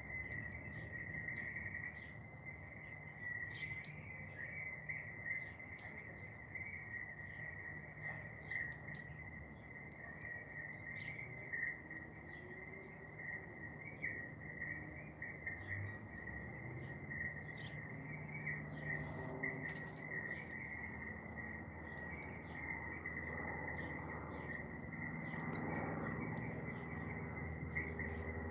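A steady, unbroken high insect trill in the garden, with short bird chirps scattered over it. A low rumble grows in the last few seconds.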